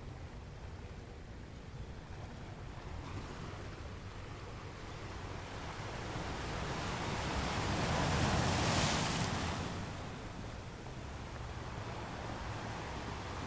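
Ocean surf: a steady low wash of the sea, with one wave building, breaking loudest about eight to nine seconds in and washing back out.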